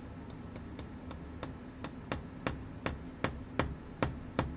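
A tiny mallet tapping the punch of a watchmaker's staking press: a run of light, evenly spaced taps, about three a second, starting faint and growing louder. It is driving the pinion back onto a Seiko 6138 chronograph's minute counter wheel, where it had started to come away.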